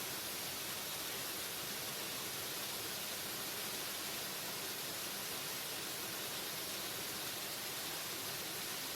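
Waterfall: water falling steadily in an even, unbroken hiss.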